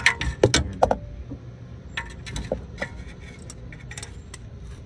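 Metal clinks and clicks of a ratchet, socket and extension as a freshly threaded spark plug is snugged down: a quick run of sharp clinks in the first second, then scattered lighter clicks.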